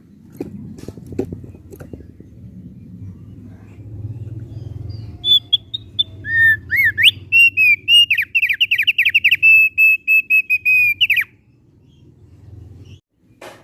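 Thick-billed heleia (opior paruh tebal) singing: a loud phrase of clear whistled notes and rapid trills starting about five seconds in and breaking off suddenly about eleven seconds in, over a low background rumble.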